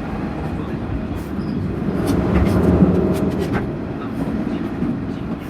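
Electric train running on the rails, its rumble building to a peak about three seconds in and then easing, with a quick cluster of sharp clicks near the middle.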